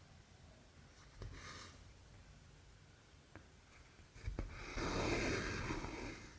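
Needle and cotton thread drawn through cross-stitch fabric: a short rasp about a second in, a few light clicks, then a longer, louder rasp near the end.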